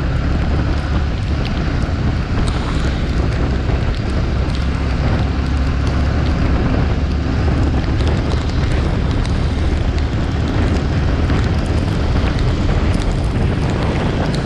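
Wind buffeting the microphone of a moving motorcycle, a loud steady rumble, with the bike running underneath and scattered small ticks of rain.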